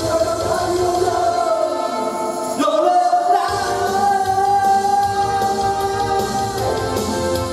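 A male singer singing a pop ballad over backing music. The bass drops out for a moment near the middle, then returns as he holds one long note.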